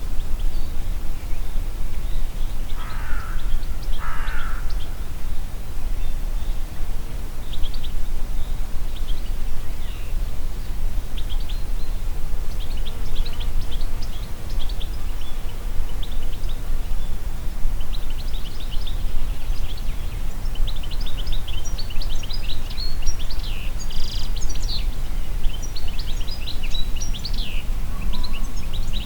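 Wind through forest trees with a steady low rumble, and small birds chirping and singing, the chirps growing busier in the second half. Two harsher, lower calls come about three and four seconds in.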